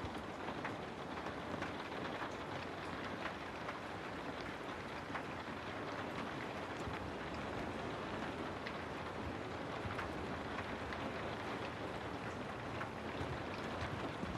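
Steady rain falling on a house: an even hiss with many small drop ticks scattered through it.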